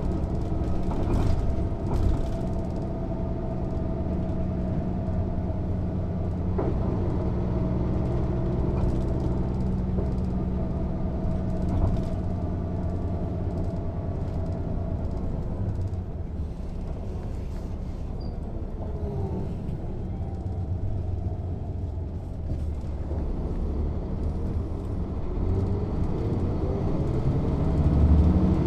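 Diesel engine of a Mercedes-Benz O 407 city bus heard on board while driving: it runs steadily, eases off to a quieter, lower run midway, then rises in pitch as the bus accelerates near the end. A few short knocks are heard over it.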